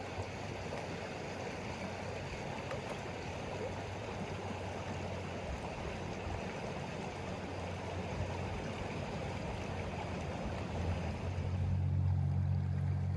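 Steady rush of flowing water, like a stream, with a low rumble growing louder near the end.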